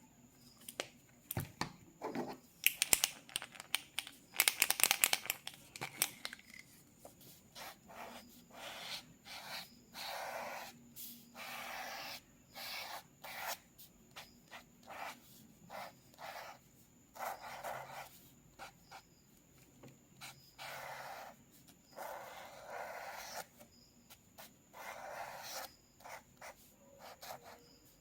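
Sketching on paper, close up. The first few seconds hold quick, sharp ticks and scratches. After that come repeated longer scratching strokes across the paper, each about half a second to a second long, with short pauses between them.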